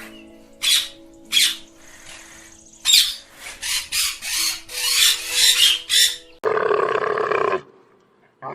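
A run of about a dozen short, harsh animal calls over faint sustained background tones. Just past the middle comes a longer, rougher call of about a second, which cuts off abruptly.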